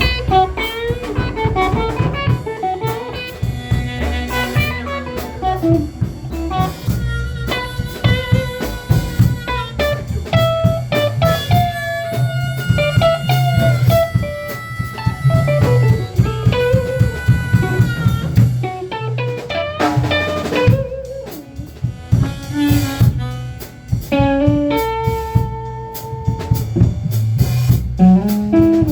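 Blues instrumental break: an electric guitar plays a lead line with bent notes over a drum kit and a low bass part.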